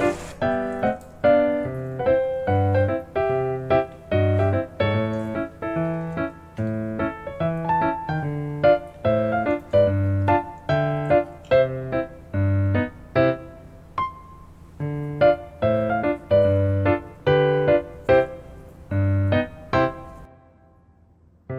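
Background music: an upbeat keyboard/piano tune over a steady bass beat, fading out near the end.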